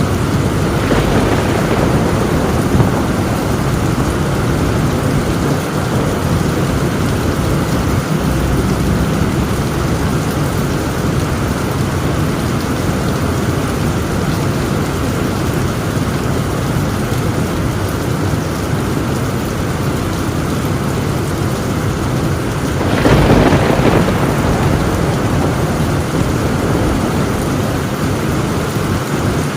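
Heavy, steady rain drumming on a tin roof, with thunder: a louder thunderclap rolls in about three quarters of the way through and fades within a couple of seconds.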